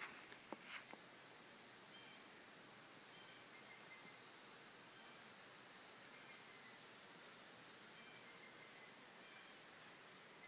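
A steady chorus of crickets and other insects: a continuous high-pitched trill, with a second, lower trill pulsing alongside it.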